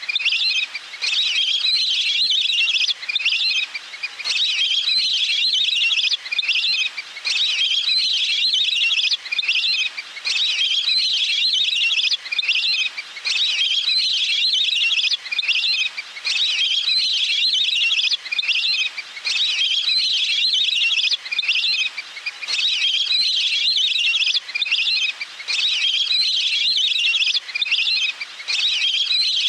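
Recorded waterfowl calls played as a hunting lure: rapid, high trilling phrases of about two to three seconds each, repeating over and over with short gaps between them.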